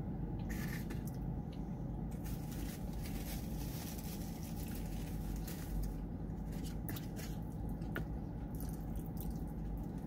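Close, wet chewing and lip smacking of a mouthful of chili cheese fries, in many quick clicks and smacks that come in two spells, over a steady low hum.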